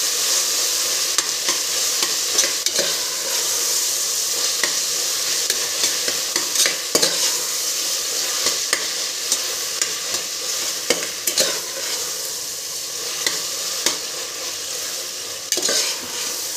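Chopped tomatoes and onions frying in oil in a pressure cooker, with a steady sizzle as the tomatoes cook down. A steel spatula stirs through them, scraping and clicking against the pot now and then, with a quick run of clicks near the end.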